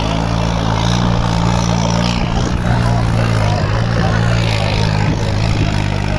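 Tractor's diesel engine running at a steady speed, with voices in the background.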